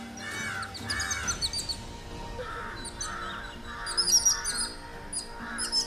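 Several birds calling: a string of harsh, rasping calls, each about half a second long, mixed with quick high chirps that are busiest about four seconds in.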